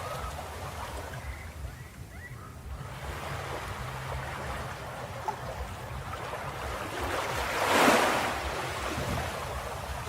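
Ocean waves on a beach: a steady low surf rumble, with one wave breaking and washing in as a loud hiss near the end.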